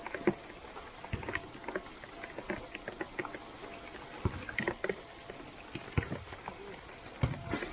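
Steady rain noise with scattered sharp knocks and a few heavier thuds, about 1, 4, 6 and 7 seconds in.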